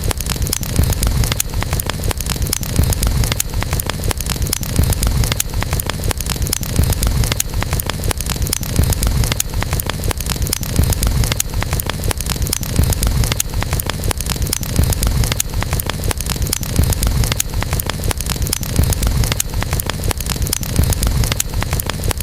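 Campfire crackling with many sharp pops and snaps over a steady low rumble.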